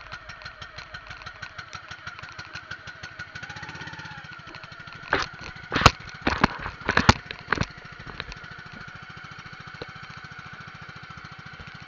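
Small boat engine running with a steady, rapidly pulsing beat. A series of sharp, loud knocks comes about halfway through.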